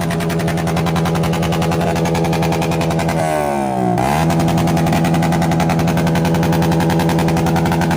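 Motorcycle engine through an open racing exhaust held at high revs, giving a rapid rasping note. About three seconds in, the revs sag briefly and then snap back up.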